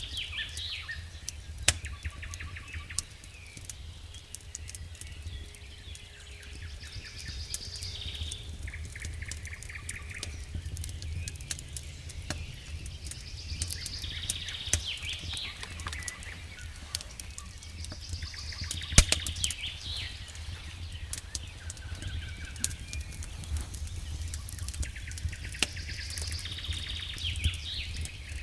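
Campfire crackling, with sharp scattered pops and one louder snap about two-thirds of the way through. Over it a songbird sings the same short phrase again and again, every few seconds, above a steady low rumble.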